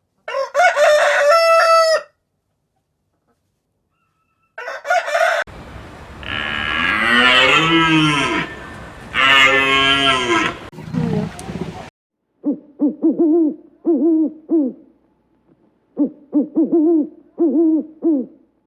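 A sequence of farm animal calls: a rooster crowing near the start and again briefly about four seconds in, then a cow mooing twice in long low calls, then two runs of short, evenly repeated hooting calls.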